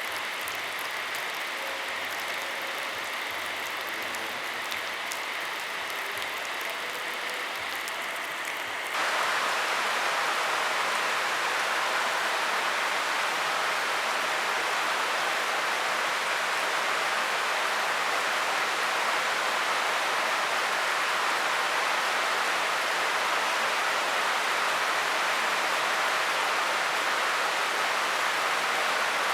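Steady rain falling, an even hiss that steps up louder and fuller about nine seconds in.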